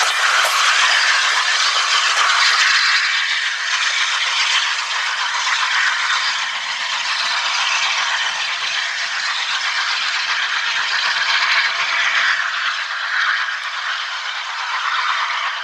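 Railway train passing close by, with a steady rattle and clatter of wheels and coaches on the track that eases slightly near the end.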